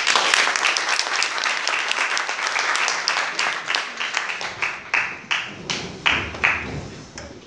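Audience applauding, dense at first, then thinning out over the last few seconds into scattered single claps that fade away.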